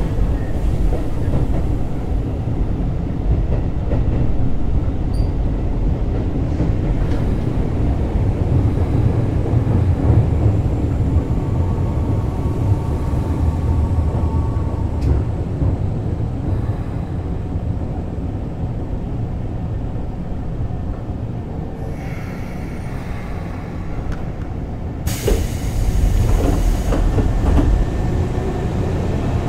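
Running noise of a Keisei 3600-series commuter train under way: a steady low rumble of wheels and running gear on the rails. A louder rush of noise comes in about 25 seconds in.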